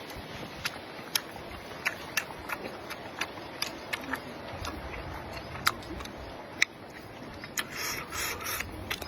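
Close-miked eating sounds: irregular sharp mouth clicks and smacks of chewing, one or two a second, with a rougher noisy stretch, likely a slurp of noodles, about eight seconds in.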